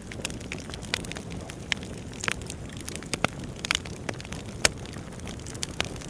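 Wood fire crackling: a steady low hiss of burning logs with irregular sharp pops and snaps, the loudest about two thirds of the way through.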